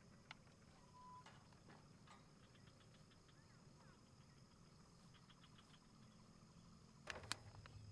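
Near silence: faint outdoor ambience with small animal calls, trains of quick ticks and a short steady chirp about a second in. A few sharp clicks near the end.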